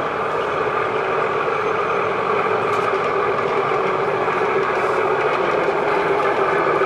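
Diesel engine sound from a sound-fitted O gauge model locomotive, running steadily and slowly growing louder.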